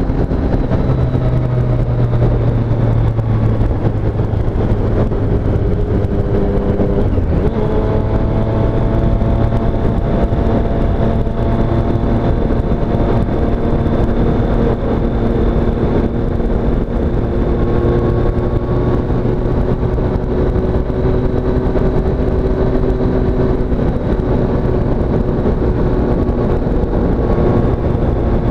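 2017 Triumph Street Triple S's 765 cc inline three-cylinder engine running under way at steady, moderate revs, with a gear change about seven seconds in, after which the note drifts slowly up and down.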